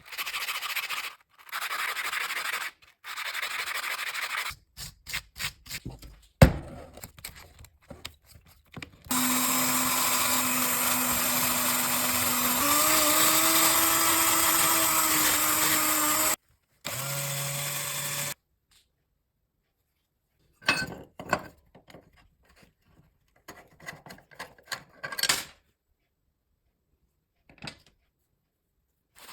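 A power tool runs steadily for about seven seconds, its motor pitch stepping up slightly about halfway through. Short bursts of scraping and scattered clicks and knocks of metal parts being handled come before and after it, with one sharp knock.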